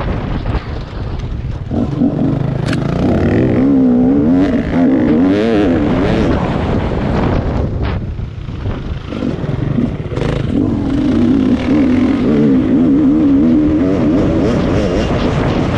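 Rieju MR 300 Pro enduro motorcycle's two-stroke engine revving up and down while riding a dirt track, its pitch rising and falling with the throttle, with a few sharp knocks along the way.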